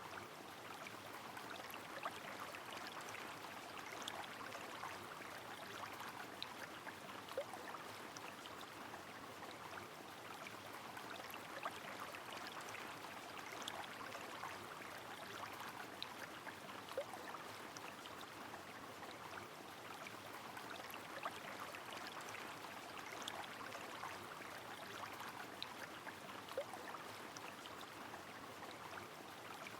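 Steady rain with a flowing river: an even hiss with scattered sharp drip ticks.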